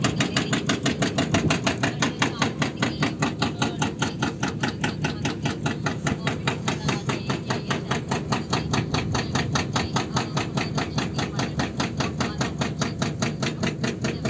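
Excavator running, with a steady rapid hammering of about five or six strikes a second over its diesel engine.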